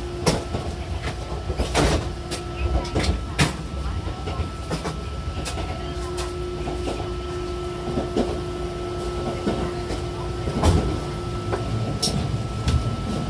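Odakyu 70000 series GSE train running at a steady speed: a low rumble with scattered sharp clicks from the wheels on the rails. A steady hum from its full-SiC VVVF traction drive drops out and returns, the pitch holding level.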